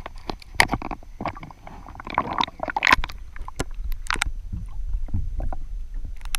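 Sounds of a kayak on the water: water noise with many sharp clicks and knocks, a louder noisy stretch about two to three seconds in, over a steady low rumble.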